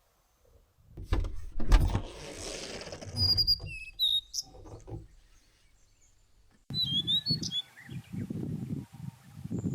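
Small birds chirping in short, high calls, some sliding up or down in pitch. Close knocks and rustling under them, the loudest knock a little under two seconds in.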